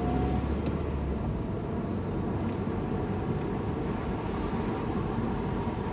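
Steady engine and road noise heard from inside a moving car's cabin, with a deeper rumble in the first second.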